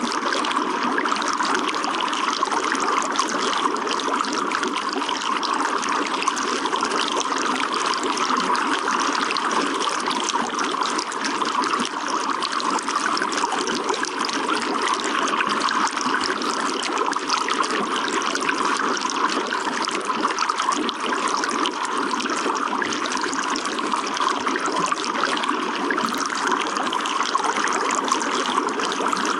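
Running water trickling and splashing in a steady, unbroken flow.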